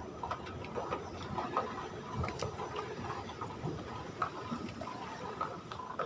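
Airport terminal background noise: irregular clicks and clatter over a steady hum.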